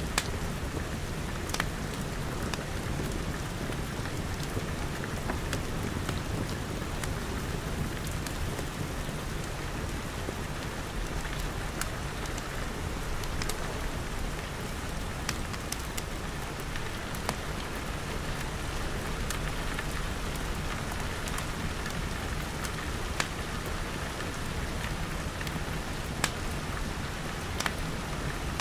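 Steady rain falling on glass, with the scattered sharp pops and clicks of a crackling fire.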